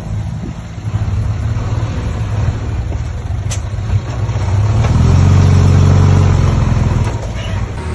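Diesel engine of heavy earthmoving machinery running under load. It revs up about five seconds in, holds for a couple of seconds, then eases back.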